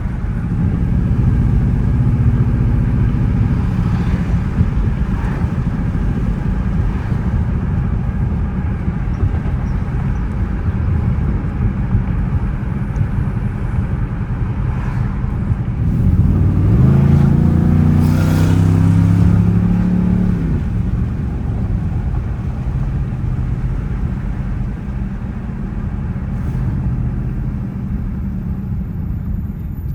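Dodge Charger R/T's 5.7-litre Hemi V8 running while the car is driven. About sixteen seconds in it accelerates: the engine note rises, holds for a few seconds and falls back to a steady drone.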